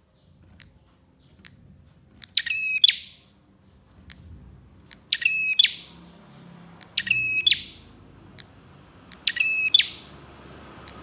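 Prenjak (prinia) calling: four loud, quick trilled phrases, each well under a second, about two seconds apart, with single short chip notes in between.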